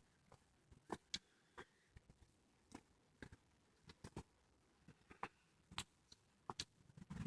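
Near silence broken by faint, irregular clicks and ticks, about a dozen spread over several seconds.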